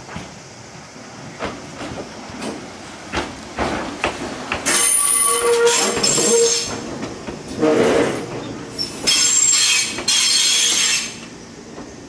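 Gakunan Railway 7000 series single-car electric train, rebuilt from a Keio Inokashira Line 3000 series car, rolling into the station. Its wheels click over the rail joints, then squeal loudly in several long stretches as it passes, before the sound dies away near the end.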